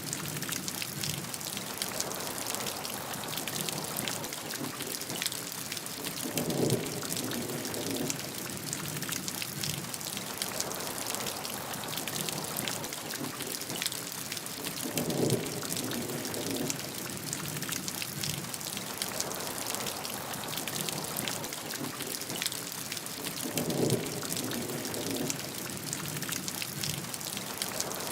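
Steady rain falling, a dense even patter of drops. Three times, evenly spaced about eight and a half seconds apart, a brief lower swell rises through it.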